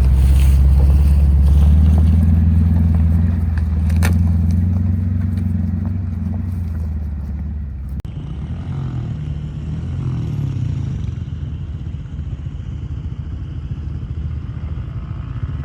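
Full-size pickup truck's gas V8 engine running under load off road, with tyres crunching and scraping over rough ground. About halfway through it cuts abruptly to a quieter engine running.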